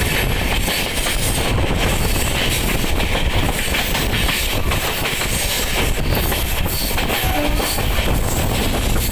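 Paschim Express passenger train running along the track: a loud, steady rumble of wheels on rails and coach noise.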